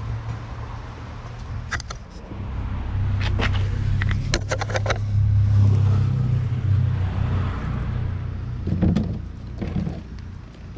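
A car engine running with a steady low hum that grows louder for a few seconds in the middle and then eases, with several sharp clicks and a couple of knocks over it.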